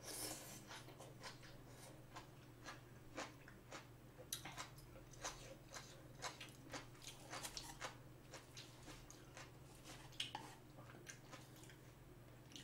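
Faint close-up chewing of a mouthful of bean sprouts from a spicy steamed clam dish: irregular soft crunches and wet mouth clicks.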